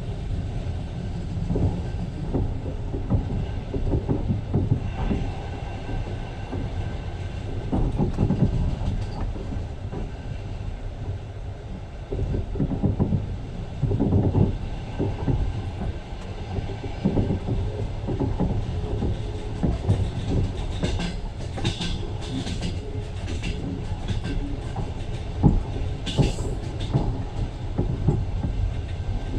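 Passenger train running along the line, heard from inside a carriage: a steady low rumble with the wheels clacking over rail joints, and a run of sharper, higher knocks and rattles about two-thirds of the way through.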